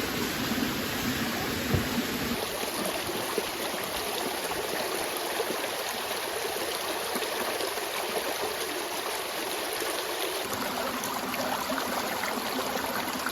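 Creek water flowing and trickling steadily, with a couple of small knocks in the first few seconds.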